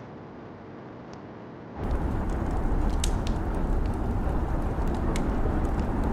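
Rain and crackling fireplace ambience: a steady rain hiss that abruptly gets louder and deeper about two seconds in, after which sharp fire crackles pop every second or so.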